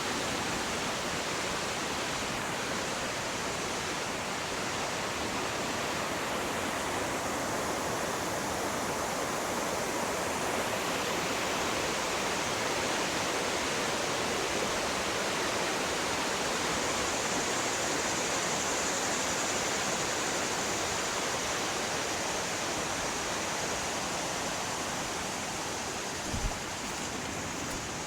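Fast-flowing river water rushing steadily, a constant broad noise. A single brief low thump comes near the end.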